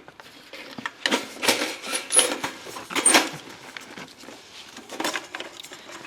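Rustling and clattering handling noises, several short scraping bursts about a second apart.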